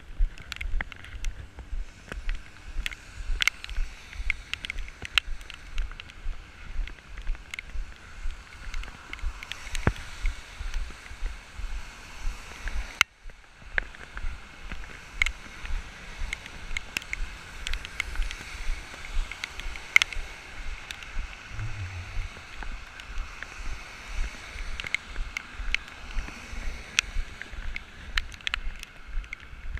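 Footsteps of someone walking or running in the rain, heard as a steady rhythm of low thumps through a body-carried GoPro, under a hiss of rain and wind on the microphone with scattered sharp ticks.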